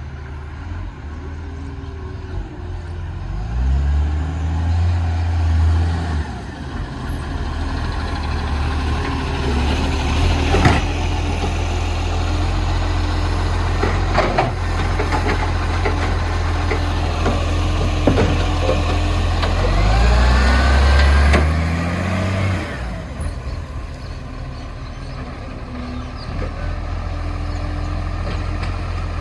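Garbage truck's diesel engine running and revving up twice, working the hydraulics of its bin lifter, with sharp clanks and knocks in between as bins are emptied into the hopper.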